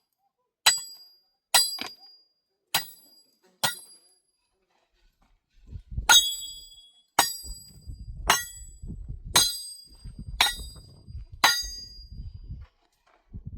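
Hammer striking stone: sharp, ringing blows about once a second, four in a row, then after a pause of about two seconds a run of six more. A low rumbling noise sits between the later blows.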